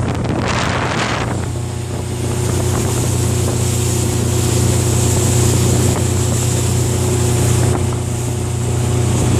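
Motorboat engine running at a steady drone, with water and wind rushing past the hull and the microphone; a brief louder gust of rushing noise comes about a second in.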